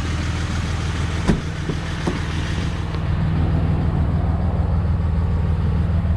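Dodge Ram 3500's Cummins turbo-diesel inline-six idling steadily, with a couple of light clicks about a second and two seconds in.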